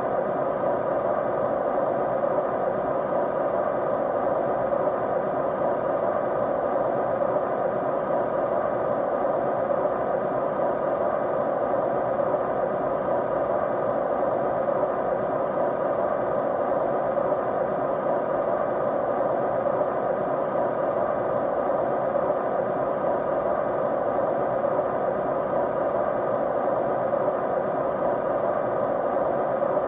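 Steady white noise, an even hiss that never changes, with a few faint steady tones running through it.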